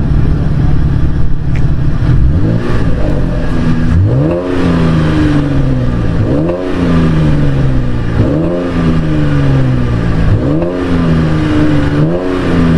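2012 Chevrolet Camaro RS engine heard at the exhaust tailpipe, idling and then revved about six times, roughly every two seconds. Each rev rises quickly and falls back slowly to idle.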